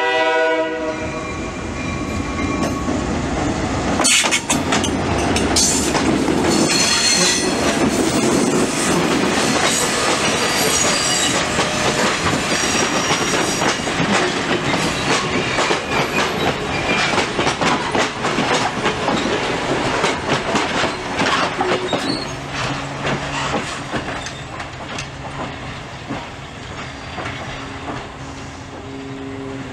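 ALCO/MLW C424 diesel locomotive and its passenger train passing close by. The horn blast ends about a second in, the locomotive goes by loudly, and the coaches follow with a rattle of wheels over the rail joints and high wheel squeal on the curve. The train noise fades away in the last several seconds as a low steady hum comes in.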